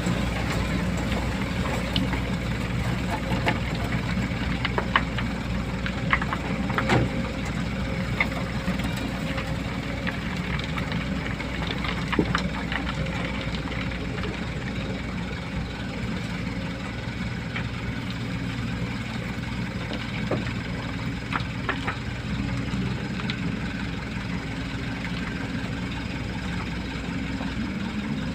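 Dump truck's diesel engine idling steadily, with scattered short clicks and knocks in the first half.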